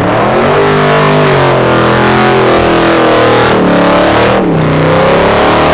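A car engine revved hard and loud, its pitch climbing, easing off and climbing again several times.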